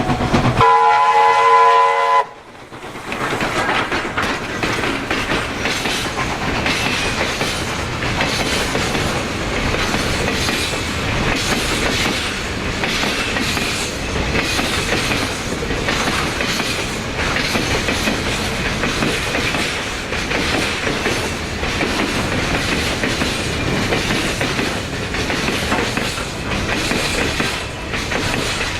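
A train whistle sounds a short chord of several notes for about a second and a half and stops abruptly, then a train runs past with a steady rumble and wheel clatter on the rails.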